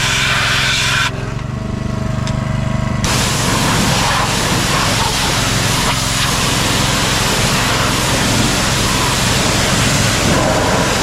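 A small engine runs steadily under the loud hiss of a high-pressure water jet blasting mud off a tractor. About a second in, the spray cuts out for roughly two seconds and the engine note shifts, then the spray resumes and carries on.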